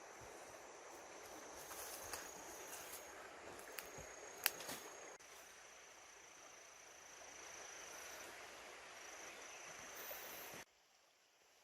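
Faint outdoor ambience of insects with a steady high-pitched hum and hiss, and a few sharp clicks in the first half. The sound drops off abruptly near the end.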